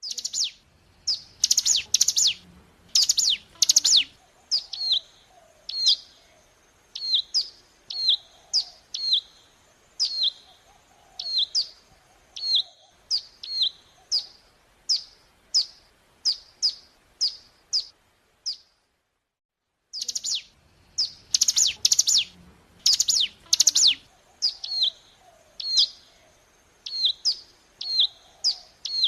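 Recorded song of a ciblek gunung, a prinia, played as a lure: a loud burst of rapid, harsh notes, then a long series of short, high chirps that slur downward, about one and a half a second. The song cuts off abruptly a little past the middle and the same sequence starts again.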